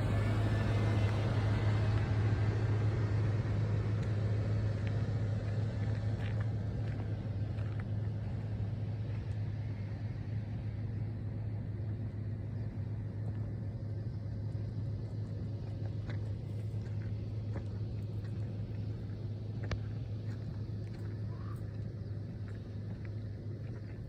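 A steady low hum over a rumbling background, slowly fading, with a few faint clicks.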